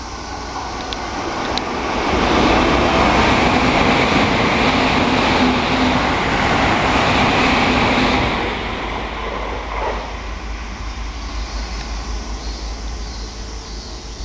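Hokuso Railway electric train running along the platform: a rushing rumble that builds over the first two seconds, stays loud for about six seconds, then eases to a lower steady noise.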